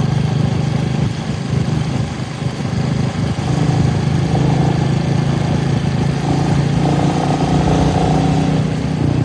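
Royal Enfield Meteor 350's single-cylinder engine running steadily under way on the ride. The engine note dips slightly about two to three seconds in, then holds steady and a little louder.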